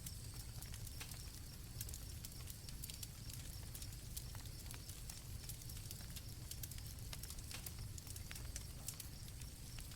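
Campfire crackling with scattered sharp pops over a low rumble, with crickets chirping faintly in the background.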